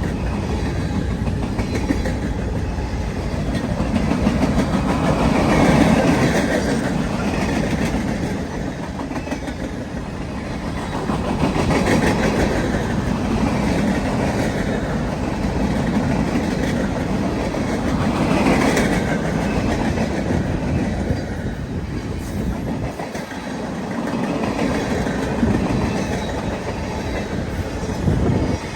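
A train's cars rolling past, the wheels clicking over the rail joints in a continuous rumble that swells and fades every few seconds.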